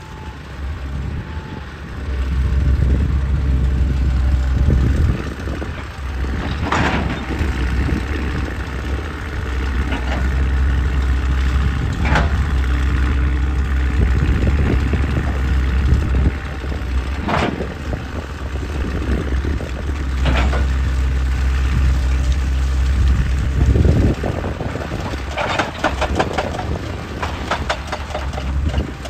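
Excavator's diesel engine running under load, surging about two seconds in, with scattered sharp knocks and a cluster of rattling knocks near the end as rock is broken and moved.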